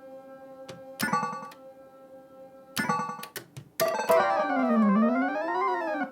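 Oohanabi pachislot machine: steady whir of the spinning reels, broken by two reel stops, each a sharp clack with a short electronic chime, about a second and almost three seconds in. A few quick clicks follow, then the loudest part, an electronic sound effect lasting about two seconds that glides down in pitch, back up and down again.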